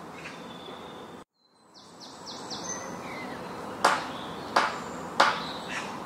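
Birds calling over a steady outdoor background hiss. The sound drops out briefly about a second in, then comes a run of quick high chirps and three loud, sharp calls about two-thirds of a second apart.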